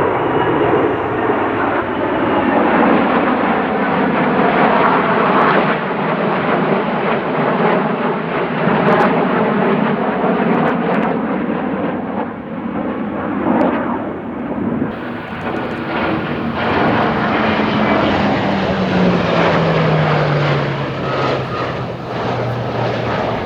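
Aircraft engine noise from a low flypast, a loud rushing sound whose engine tone slides down in pitch as the aircraft goes by.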